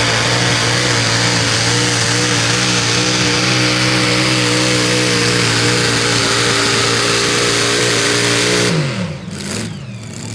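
A competition pulling tractor's engine running loud and steady at high revs, then winding down quickly, falling in pitch, near the end.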